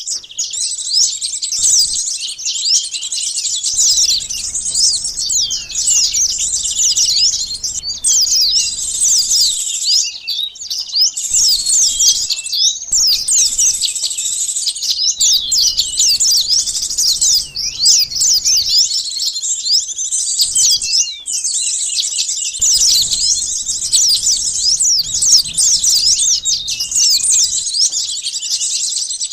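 Bird-lure recording of small birds, sunbirds among them: a dense, unbroken chorus of rapid high-pitched chirps and twitters with many calls overlapping.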